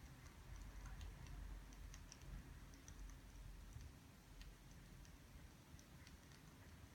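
Faint crackling of burning firewood: scattered, irregular small clicks and pops over a low steady rumble.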